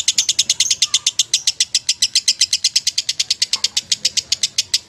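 Lovebird singing a long, unbroken chattering song: rapid high chirps, about eight or nine a second, at an even pace.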